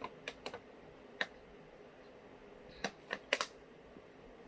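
Scattered sharp clicks and taps from things being handled at the table, about seven in all, with a quick cluster near the end.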